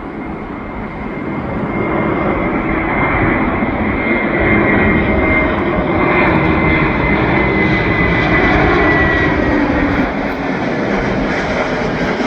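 Airliner on final approach flying past: its engine noise builds over the first couple of seconds and holds loud, with a high whine that slowly falls in pitch.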